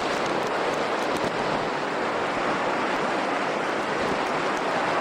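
Steady rushing noise of storm wind and heavy ocean surf during a nor'easter blizzard.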